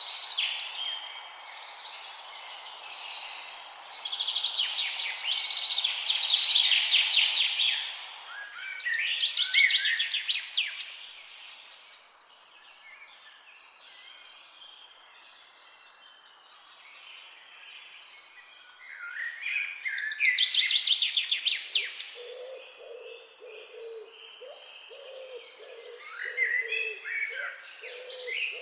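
Wild birds singing, with bouts of rapid, high chirping and trilled song separated by a quieter spell. In the last quarter a lower repeated note joins in, several times a second.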